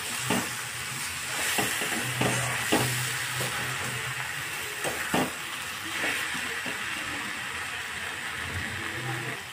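Soya chunks, peas and onion in masala sizzling in a metal kadhai, with a perforated metal spatula stirring and scraping through them and clinking against the pan several times in the first half.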